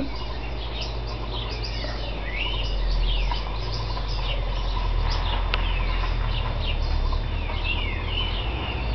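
Small birds chirping outside, many short falling chirps one after another, over a steady low hum.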